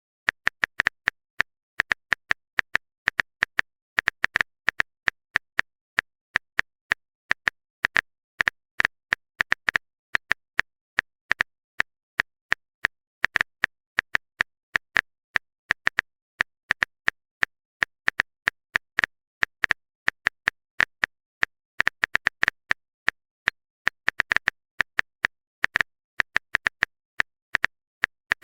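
Phone keyboard typing sound effect: short, sharp clicks in quick irregular runs of a few per second, with brief pauses between runs.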